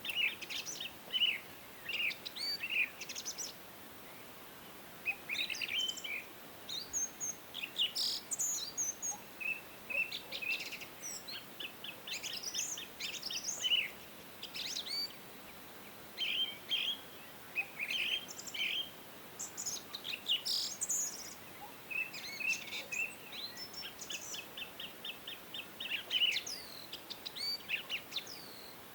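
Songbirds singing and chirping: short phrases and fast trills, several birds overlapping, with short pauses between bursts.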